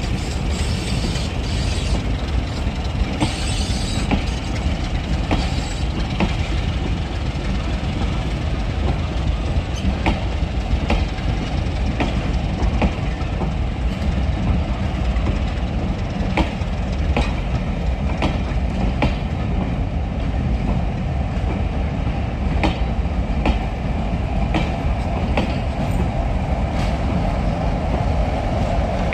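Diesel train running along the line: a steady low rumble with the wheels clicking over rail joints.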